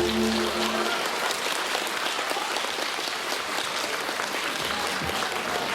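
Audience applauding, as the final held note of the song's backing music stops about a second in.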